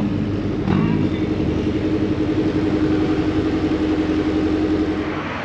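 Car engine and exhaust running steadily under load at a near-constant pitch, a steady drone from its firing pulses, easing off and getting quieter near the end.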